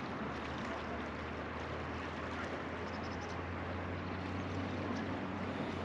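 Truckee River water flowing and rushing steadily around a floating raft, with a low rumble underneath and a few faint high chirps about three seconds in.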